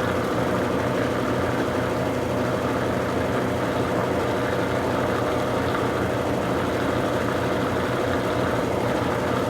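Consul Super Cargo 8 kg (CWL08C) top-load washing machine in its spin cycle with a load of towels, its motor and tub running with a steady hum. The machine is still jumping on the floor from the spinning load.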